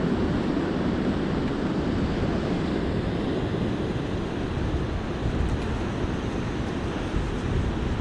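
Ocean surf washing onto the beach in a steady wash, with wind buffeting the microphone and adding a low, fluttering rumble.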